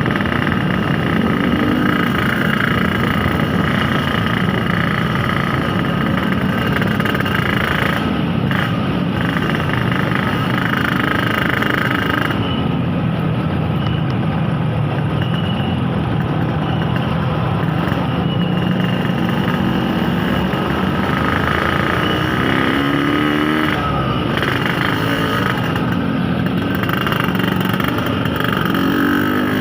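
Yamaha RX-King 135 cc two-stroke single-cylinder engine running while the motorcycle is ridden, its pitch rising and falling with the throttle, with a rising rev near the end.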